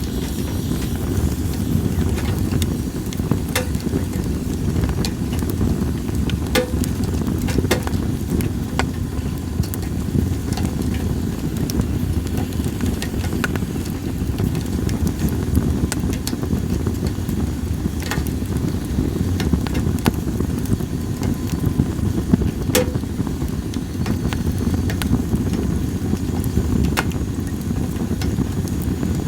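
Campfire of split sawtooth oak (kunugi) firewood crackling, with sharp pops scattered every second or so over a steady low rush.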